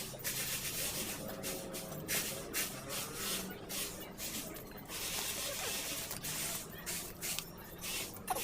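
Hand sanding of the welded metal rack: short rasping rub strokes, about two a second.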